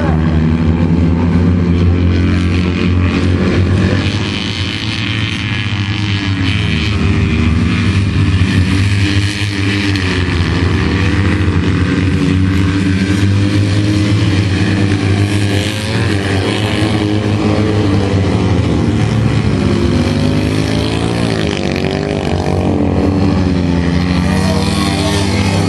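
Citroën 2CV race cars' air-cooled flat-twin engines running hard, their pitch rising and falling as the drivers rev through the corners.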